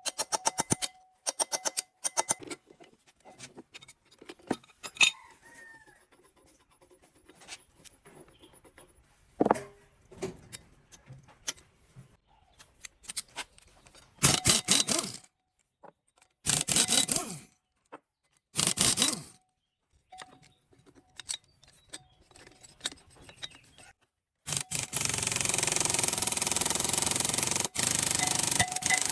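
Metalwork on old diesel engine parts: scattered clinks, taps and scrapes, three short bursts of harsh scraping in the middle, then a steady loud noise starting about three-quarters of the way through.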